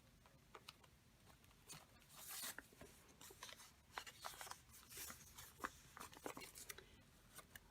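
Faint rustling and light ticks of paper and card being handled, with a few short crinkles of paper here and there.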